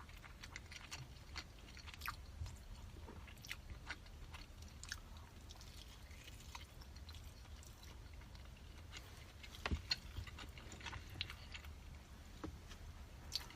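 Close-up chewing of a salted-egg-yolk pork zongzi (sticky-rice dumpling): soft, wet mouth sounds and small smacks, with a sharper click about ten seconds in.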